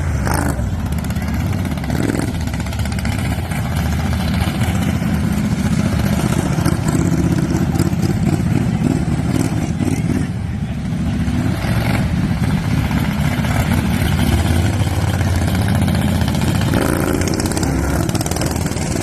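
Racing lawn tractor engines running hard during a race, loud and steady, easing briefly about halfway through before coming back up.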